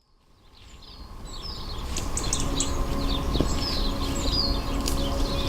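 Many small birds chirping and calling in quick, short notes, with a low rumble of outdoor ambience underneath; the sound fades in over the first two seconds.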